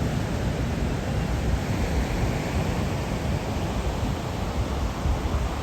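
Ocean surf washing in as a steady rush of noise, heavy with storm swell, with wind rumbling unevenly on the microphone.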